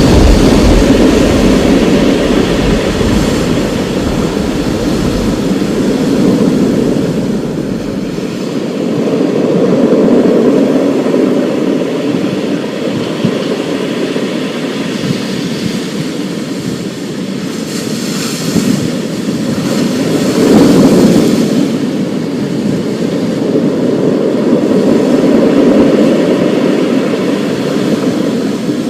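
Thunderstorm: a steady rushing noise of storm wind and rain that swells and eases several times, with a deep thunder rumble that dies away about eight seconds in.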